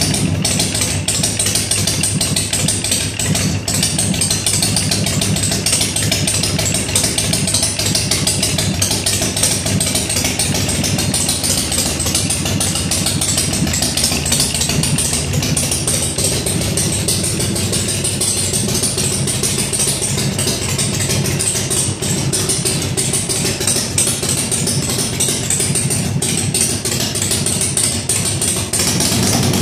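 A 113 cubic inch Ultima V-twin in a custom chopper, running steadily at idle on its first start after the build.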